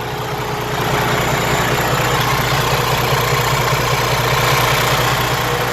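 Detroit DD15 diesel engine of a Freightliner Cascadia idling with a steady, very heavy noise. The fuel pump's control valve is sticking open, so rail pressure climbs far above what the engine computer commands and the engine gets more fuel than it can burn at idle.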